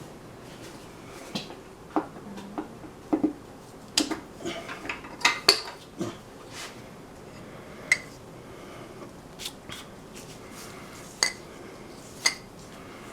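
Metal engine parts and tools clinking and clattering as they are handled and set down, in irregular sharp knocks with a busy cluster in the middle.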